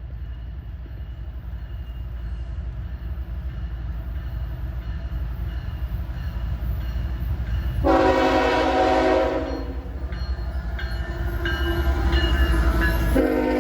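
Approaching CSX diesel freight train: low locomotive rumble growing louder, with the horn sounding a long blast about eight seconds in and another starting just before the end.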